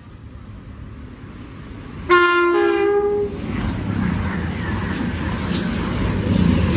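CrossCountry Voyager diesel train sounding its two-tone horn about two seconds in, a lower note and then a higher one. It then passes at speed with a loud, steady rumble of engines and wheels.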